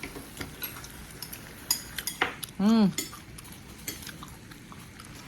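Eating utensils clicking and clinking against dishes during a meal, with a hummed "mmm" of enjoyment about halfway through.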